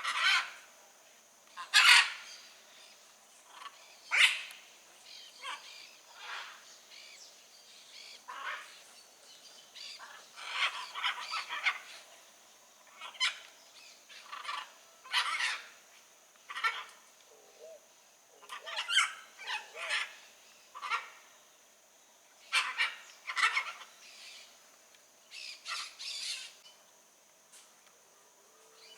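Blue-and-yellow macaws squawking: a string of short, harsh calls at irregular intervals, the loudest about two seconds in.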